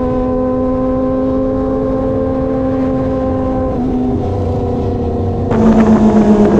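Kawasaki ZX-25R 249 cc inline-four with an SC Project exhaust running at high, steady revs. Its pitch steps down a little about four seconds in, and it grows louder about five and a half seconds in as the throttle opens.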